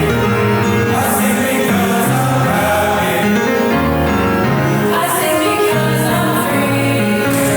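School choir singing, holding notes and moving between chords.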